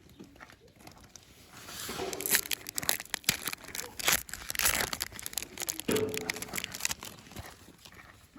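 Foil wrapper of a Pokémon card booster pack being crinkled and torn open, a dense crackly rustling that swells about two seconds in and dies down near the end.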